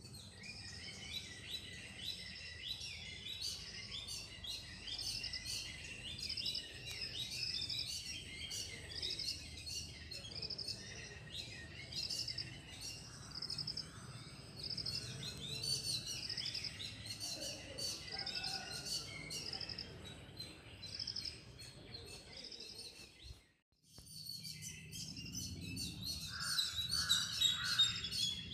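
Small birds chirping busily, with many short high calls repeating and overlapping. The sound drops out for a moment about 23 seconds in, then the chirping resumes.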